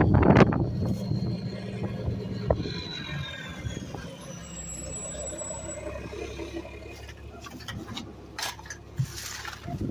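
Garbage truck running, with a loud hiss in the first half-second over the engine rumble. The rumble drops away after about two and a half seconds, leaving a faint falling whine and a few knocks near the end.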